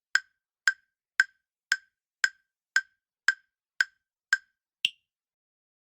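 Countdown timer sound effect: short, evenly spaced ticks, about two a second, ending with a single higher-pitched tick near the end.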